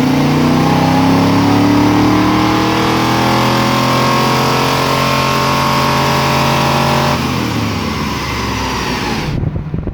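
Car engine revving, its pitch slowly climbing and held high for about seven seconds, then falling off as the throttle is released; the sound cuts off abruptly near the end.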